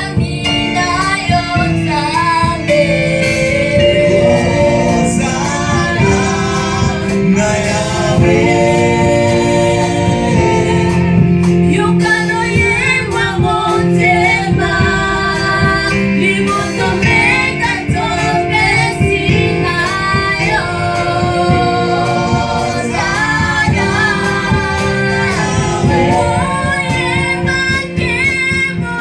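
Church choir singing a French gospel worship song with instrumental backing and a steady beat.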